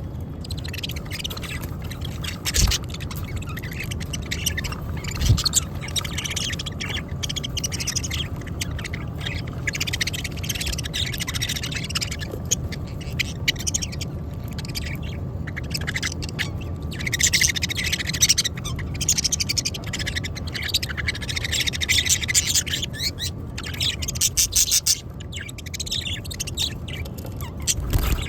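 A group of budgerigars chattering and chirping in rapid, high-pitched bursts that swell and ease off, over a steady low hum.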